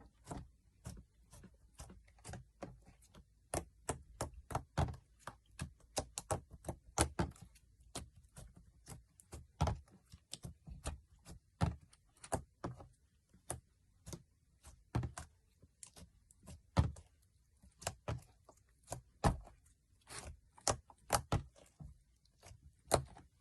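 Slime being squeezed and pressed by hand, giving a quick irregular run of sharp clicks and pops, about two to four a second, as trapped air bursts out.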